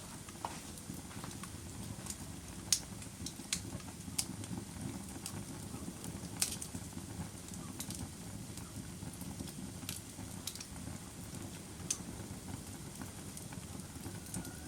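Wood fire crackling: a steady low rumble of burning with irregular sharp pops and snaps, a few of them louder than the rest.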